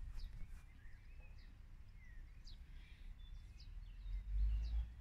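Birds chirping now and then in short separate calls, over a low rumble that swells briefly near the end.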